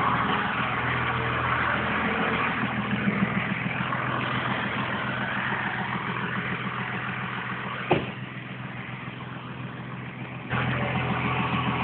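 Truck engine running at a steady idle, slowly fading, with a sharp click about eight seconds in. The engine sound drops for a couple of seconds, then jumps back up abruptly near the end.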